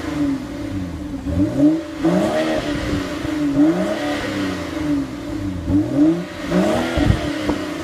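2014 BMW X3 xDrive35i's turbocharged inline-six being revved in repeated short blips. Each rev rises and falls back in pitch, about six times in a row.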